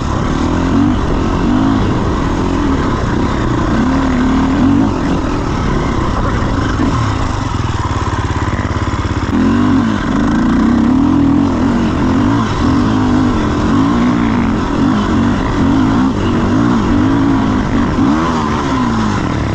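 Dirt bike engine running while being ridden, its pitch rising and falling repeatedly with the throttle.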